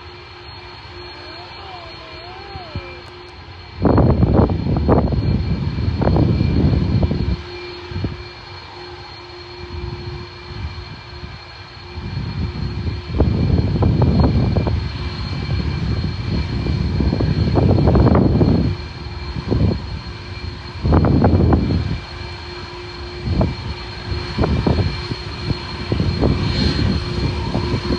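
Jet airliner engine noise, with repeated irregular gusts of wind buffeting the microphone from about four seconds in.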